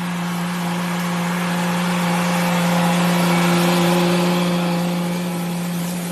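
Tractor engine running at a steady speed, a constant drone that grows louder toward the middle and then fades a little.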